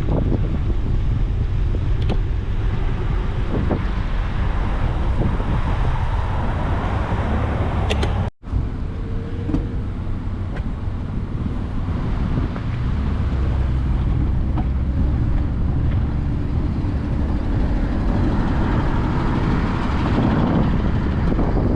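Passing car traffic heard from a moving bicycle, with wind rumbling on the microphone. The sound drops out for an instant about eight seconds in.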